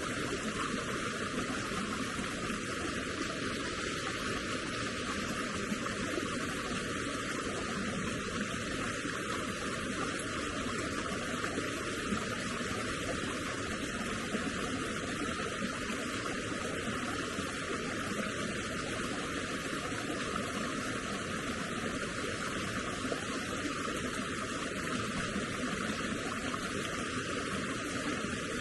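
Flowing water: a steady, even rushing with no separate splashes or breaks.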